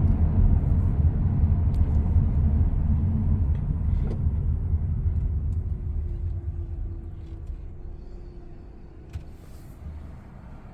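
Low, steady road and engine rumble of a car being driven, growing gradually quieter through the second half.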